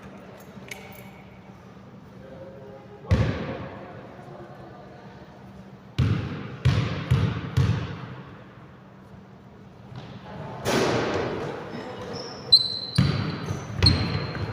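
Basketball bouncing on an indoor court: a single bounce about three seconds in, then four dribbles about half a second apart, with voices in the hall and short high squeaks near the end.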